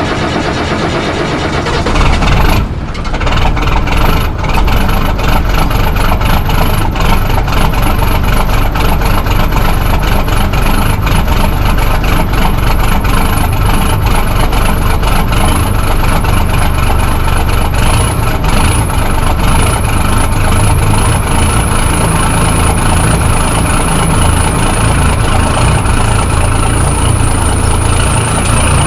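Caterpillar 3116 inline-six diesel in a 1991 Chevrolet Kodiak C6000, cold-started at about 30 degrees: it catches about two seconds in, falters briefly, then settles into a steady idle.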